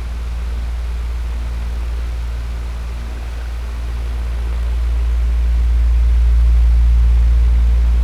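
Electric fan running steadily: a strong low hum under an even airy rush, swelling gently in loudness near the end.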